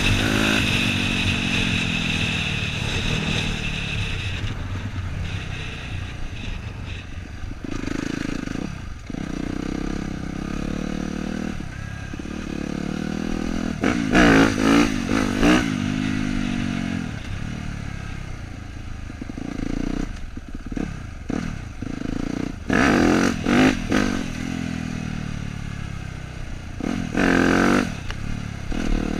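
Dirt bike engine running on a trail ride, its revs rising and falling with the throttle: three quick blips about halfway through, then two more bursts near the end.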